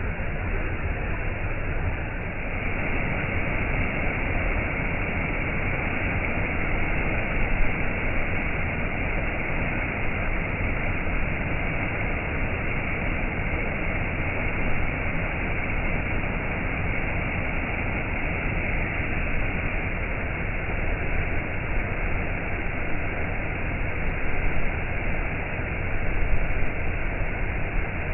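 Waterfall: water falling and rushing in a steady, even roar with no break.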